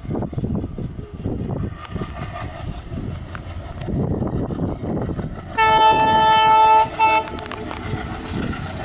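Passenger train running, with a steady rumble and clatter of wheels on the rails. About halfway through, the locomotive's horn sounds one long blast and then a short one.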